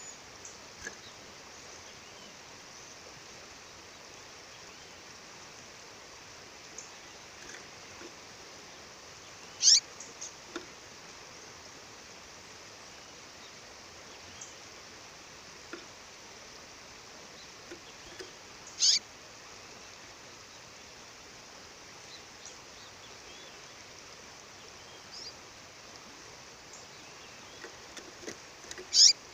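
Steady rush of a waterfall with a female songbird calling: three short, sharp, high calls about nine seconds apart, with faint scattered chirps between them.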